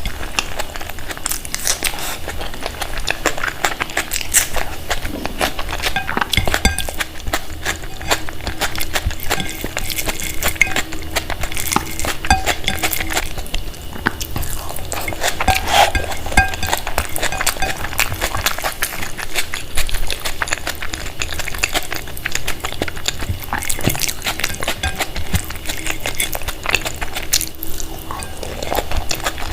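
Eating noises from a plate of Indian food: dishes clinking and scraping and many small clicks, over steady background music.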